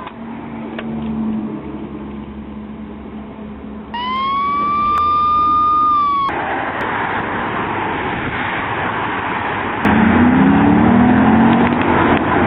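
Car engine running, then a siren holding one steady tone for about two seconds a third of the way in, cut off suddenly. After that comes loud engine and road noise, with the engine revving up in short rising climbs near the end.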